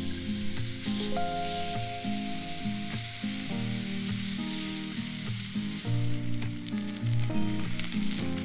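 Food sizzling steadily as it fries in a skillet, under background music.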